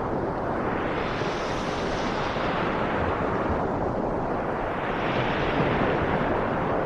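Ocean waves surging in twice, about a second and a half and about five seconds in, each swell rising and then falling away, over a steady rush of rain and surf.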